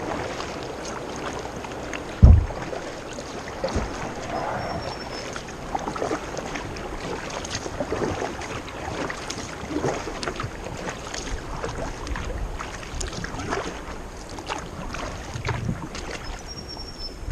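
Kayak paddle strokes dipping and splashing in the water, with drips and small splashes throughout, and one heavy thump about two seconds in.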